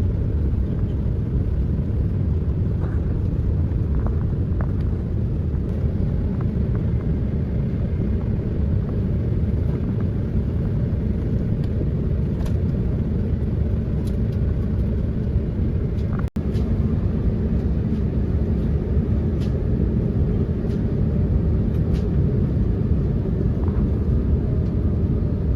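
Steady low rumble of an Airbus A350 airliner cabin in flight, the engines and airflow heard from inside, with a few faint clicks. There is a momentary break about two-thirds of the way through.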